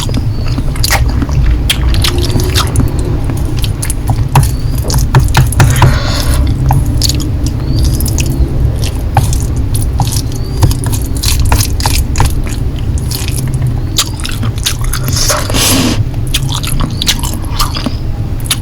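Close-miked chewing and biting of Korean noodles: a steady stream of wet clicks and smacks, with a couple of longer slurping smears, over a steady low hum.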